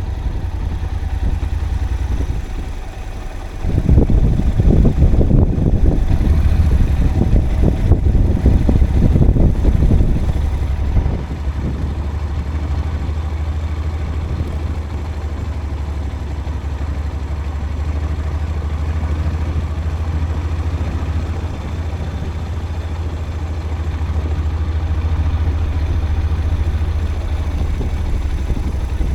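A vehicle running along a forest road, heard as a steady low rumble. From about four to ten seconds in the rumble grows louder and rougher.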